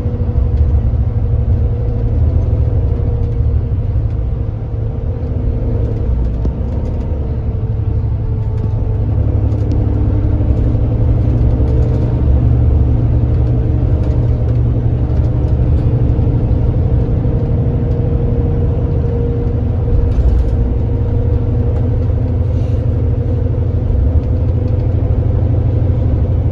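Kia Granbird Sunshine coach's engine running steadily at road speed, a deep rumble with road noise and a steady hum above it, heard on board the bus.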